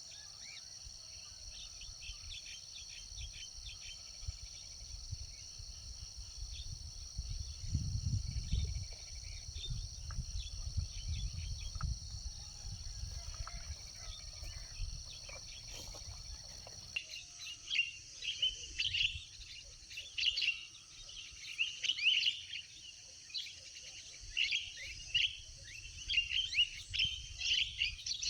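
Outdoor birdsong over a steady high insect drone, with a low rumble in the first half. About halfway through, a dense run of bird chirps sets in and grows louder.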